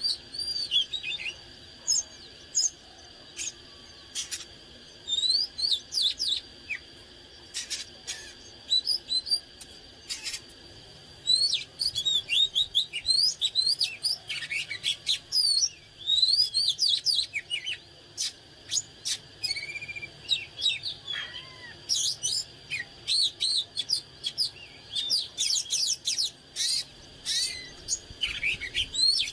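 Oriental magpie-robin singing: quick varied phrases of clear whistles, chirps and sweeping notes, broken by short pauses, over a faint steady high tone.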